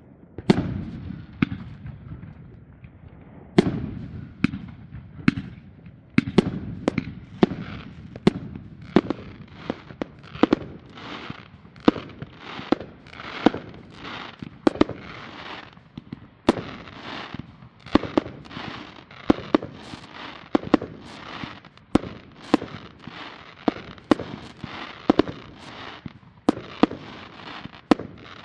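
Fireworks going off in a continuous run of sharp bangs, about one or two a second, with crackling between them.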